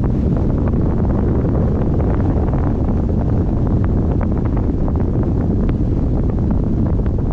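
Strong wind buffeting the microphone: a loud, steady rumbling rush with small gusty flutters.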